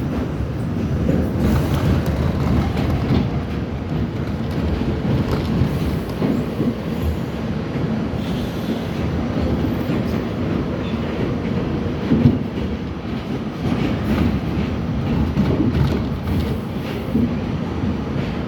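R68 subway train running on the track: a steady low rumble, with one sharper knock about twelve seconds in.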